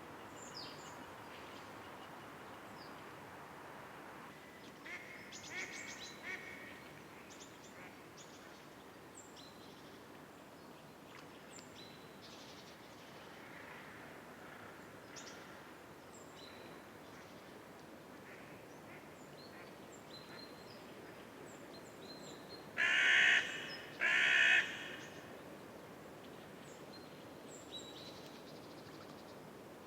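Birds calling over a steady background hiss: scattered short, high chirps throughout, and about three-quarters of the way through two loud, raspy calls in quick succession.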